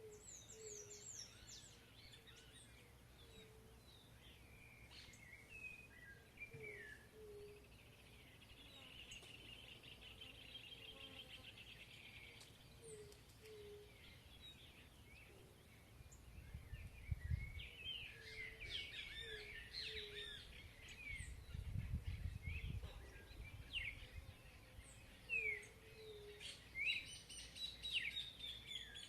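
Several birds singing and calling, with sharp chirps and whistles. A fast buzzy trill comes about a third of the way in, and soft low paired notes repeat throughout. Two low rumbles rise and fade in the second half, while the chirping grows busier.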